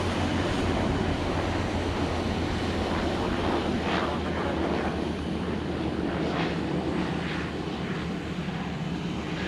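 Airplane engine noise: a steady rush with a low hum underneath, easing slightly toward the end.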